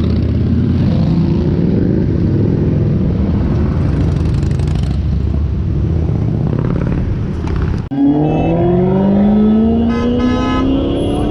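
Sports car engine rumbling low in street traffic. After a sudden break about eight seconds in, an engine accelerates with a steadily rising pitch, and a car horn sounds briefly near the end.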